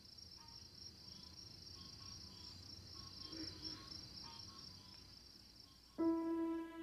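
Crickets trilling steadily, a continuous high, fast-pulsing chirr at low level. About six seconds in, soft music with long held notes comes in abruptly over it.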